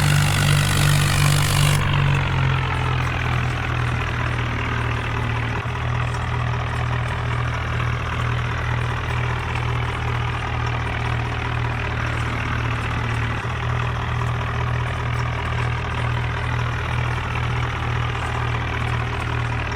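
Mahindra Arjun tractor's diesel engine running steadily, easing down slightly in speed and loudness about two seconds in, then holding an even hum.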